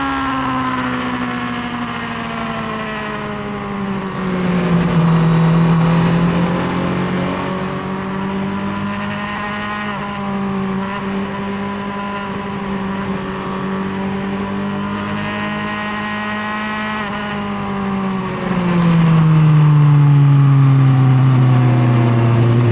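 Inline-four engine of a 2018 Suzuki GSX-R1000R superbike heard onboard. The revs fall in the first few seconds, then hold fairly steady at part throttle. They drop lower again about three-quarters of the way in, when the engine gets louder.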